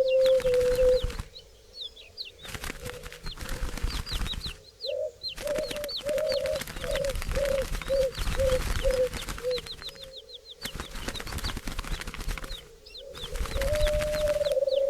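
Birdsong soundscape: a long low call at the start, then a series of about nine short low notes that come quicker and shorter, over many thin high chirps from small birds and a rushing noise that stops and starts.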